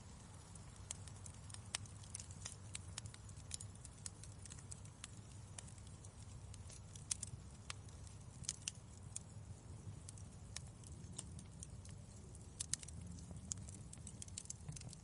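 Wood fire crackling in a fireplace: irregular sharp pops and snaps, some in quick clusters, over a steady low rumble of the burning.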